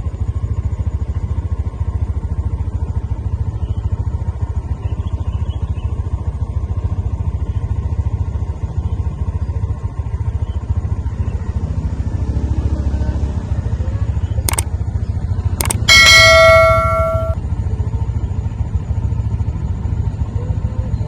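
A steady low rumble, with two short knocks and then one loud bell-like ringing tone about three-quarters of the way through that fades over a second and a half.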